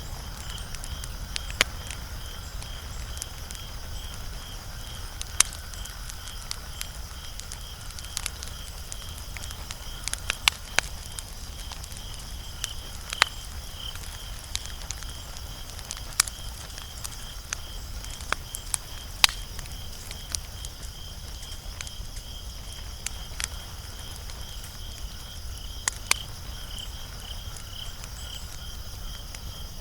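Wood fire crackling, with sharp irregular pops every second or two over a low steady rumble. A steady high pulsing trill runs underneath.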